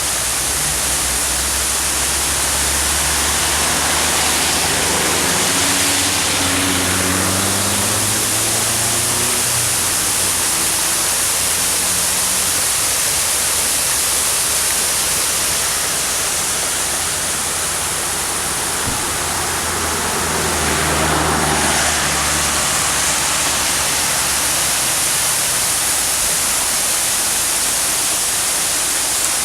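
Rainwater waterfall rushing in a steady, loud roar of falling water. A low droning hum sits underneath for the first third and again about two-thirds through.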